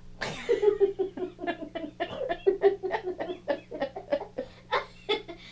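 A young girl's voice making a rapid string of short wordless sounds, about four to five a second, with a low steady hum underneath.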